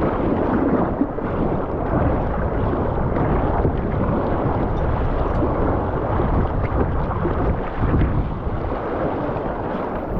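Steady rush of whitewater in a river rapid, mixed with wind buffeting the microphone.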